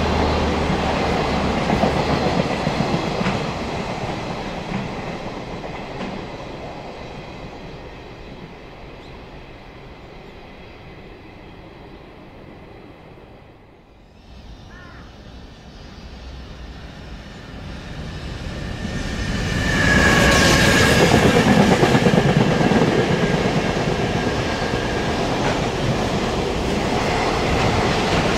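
Container freight train's wagons rumbling and clicking over the rail joints as they run away into the distance, fading to a faint hush around the middle. About two-thirds in, a second container freight train comes through loud, with a high steady squeal for several seconds.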